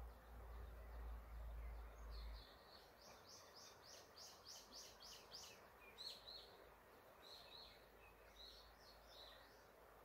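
A small songbird singing a quick run of high rising notes, about three a second for some three seconds, then giving scattered short chirps, over the faint steady rush of a river's rapids. A low rumble stops about two and a half seconds in.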